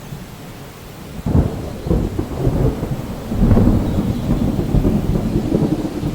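Rolling thunder over steady rain: a crackling rumble breaks in about a second in and grows into a louder, sustained rumble halfway through.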